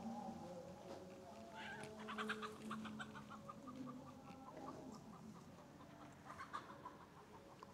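A chicken clucking faintly in a quick run of short repeated calls, with a second, shorter run near the end.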